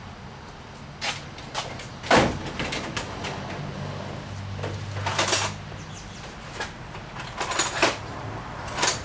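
Hand tools clattering and clanking in a series of irregular sharp knocks, a search through tools for a socket extension. A faint steady low hum runs underneath.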